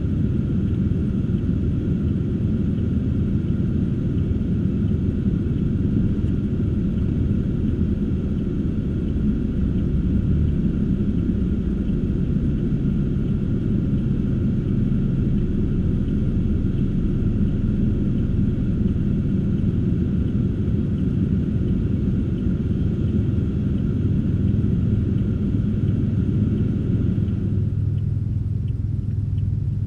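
Car driving, heard from inside the cabin: a steady low rumble of engine and road noise with a faint higher whine. The whine drops away near the end.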